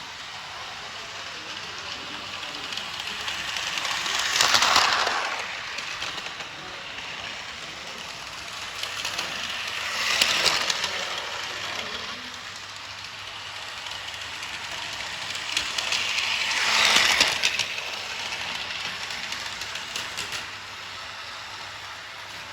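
Märklin My World battery-powered toy train running on its plastic track. The motor and wheels rattle steadily and grow louder three times, about every six seconds, as it passes close by.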